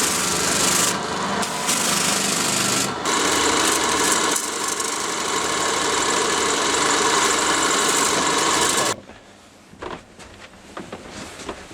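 A loud, steady rasping hiss that cuts off suddenly about nine seconds in, followed by much fainter scattered knocks.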